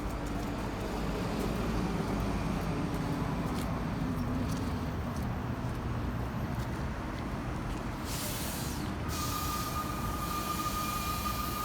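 City street traffic with wind rumbling on the microphone; about nine seconds in a steady high-pitched whine or squeal sets in and holds.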